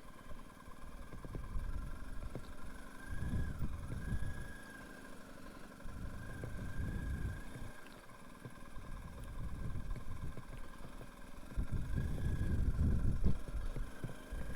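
BMW R 1250 GS boxer-twin motorcycle running at road speed, with a low wind rumble on the microphone that swells and fades in gusts every few seconds.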